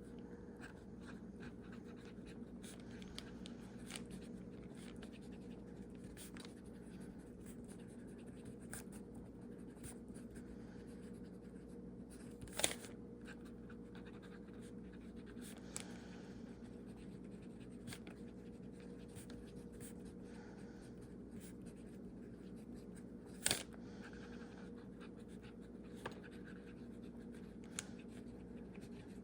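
Fountain pen's medium nib scratching faintly across paper in short strokes, over a steady low room hum, with two sharp clicks partway through.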